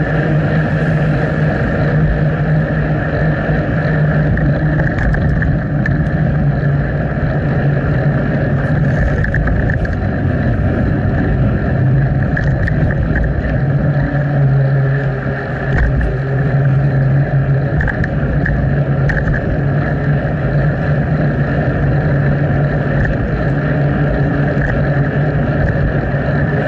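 Steady rush of wind and rolling noise on an action camera's microphone during a bicycle ride.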